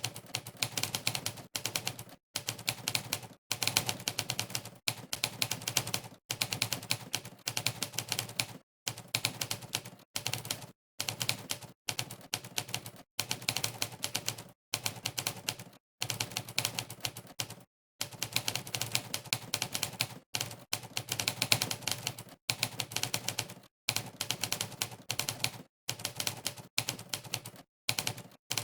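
Fast typing played back through a typing test's typewriter sound effect: a sampled typewriter key clack for every keystroke. The clacks come in quick runs, broken every second or so by short silent gaps.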